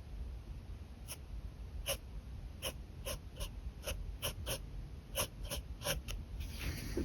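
Pen drawing on paper: about a dozen short, quick strokes, each a brief scratch, then a longer scratchy stroke near the end.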